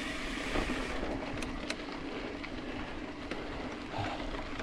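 Mountain bike rolling on a dirt truck trail: steady tyre and rolling noise with a few sharp clicks and rattles, and wind on the microphone.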